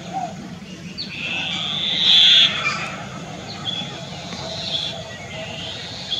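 Wild animal calls: a harsh, buzzy call lasting about a second and a half, starting a second in, then fainter calls and short chirps, over a steady low background hum.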